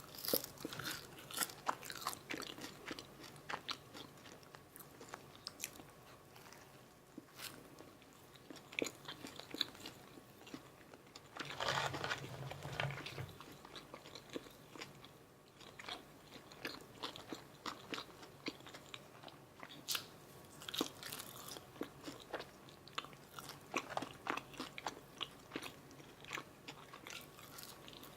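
Close-miked eating of a McDonald's Filet-O-Fish meal: crisp bites and chewing, with many irregular sharp crunchy clicks and a louder, denser stretch of chewing about twelve seconds in.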